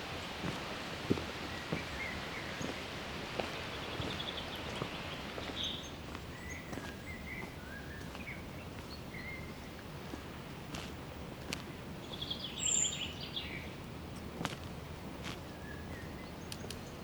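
Forest ambience: a steady background hiss with scattered short bird chirps and soft footsteps on a trail. A louder burst of bird calls comes about three quarters of the way through.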